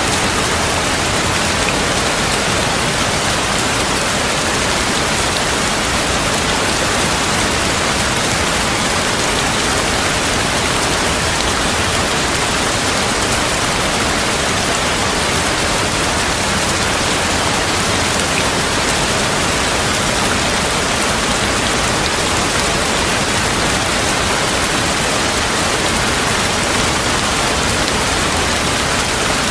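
Steady, heavy rain falling, an even hiss with no thunderclaps or other distinct events.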